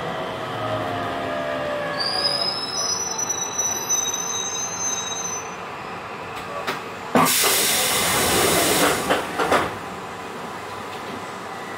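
Hokuso 7800 series electric train heard from inside the car as it slows: the inverter's whine fades early on. A high-pitched squeal from the wheels or brakes runs from about two to five seconds in. About seven seconds in there is a loud hiss of air lasting a couple of seconds, after which a low, steady running noise remains.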